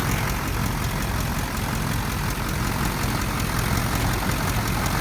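2001 Chevrolet 3500's 6.6-litre Duramax V8 diesel idling steadily.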